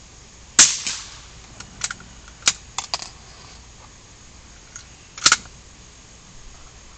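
Two gunshots about four and a half seconds apart, the first the loudest, with a handful of sharp smaller clicks between them.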